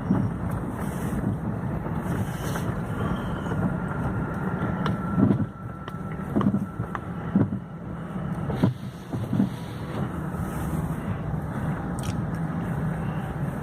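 A car running with a steady low rumble, and a few short knocks in the middle.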